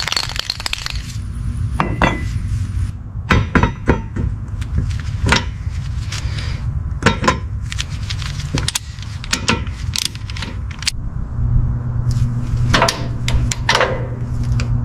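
Repeated sharp metallic clinks and knocks, like hand tools striking metal, over a steady low hum that grows stronger about two-thirds of the way through.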